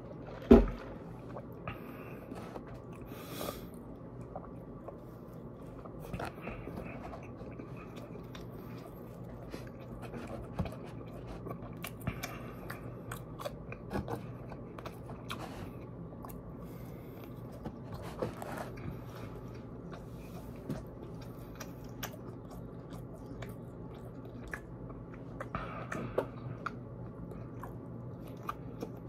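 Close-up mouth sounds of someone chewing and biting fried food, french fries and a Monte Cristo sandwich, with many small wet clicks and crunches over a steady low hum. A single sharp knock about half a second in is the loudest sound.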